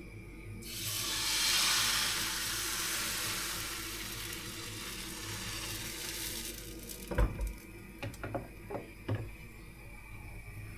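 Pancake batter poured into a hot frying pan and sizzling, the hiss swelling about a second in and fading away over several seconds. A few sharp knocks follow, the loudest about seven seconds in.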